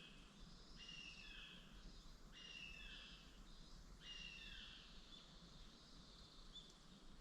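A bird calling over and over, a short call falling in pitch about every one and a half seconds, faint over a low steady hum.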